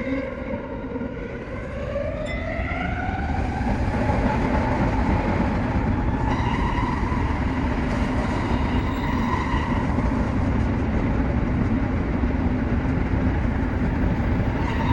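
Tsukuba Express TX3000-series electric train under way: a whine of several tones rises in pitch over the first few seconds as the train accelerates, then levels off into steady running noise and rumble from the wheels on the rails.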